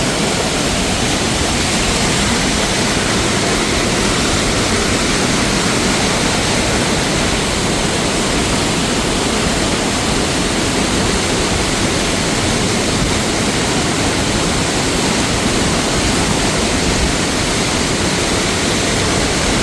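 Steady, loud rush of fast-flowing mountain water.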